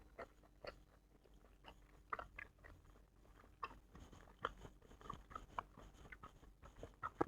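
Person chewing food close to the microphone: faint, irregular wet mouth clicks and small crunches, coming more often toward the end.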